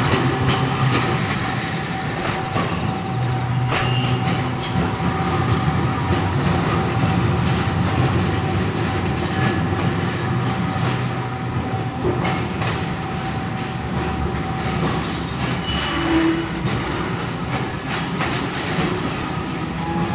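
Toyama Chiho Railway 7000-series streetcar running at low speed, a steady hum of the tram with wheel squeal and rail clatter at times.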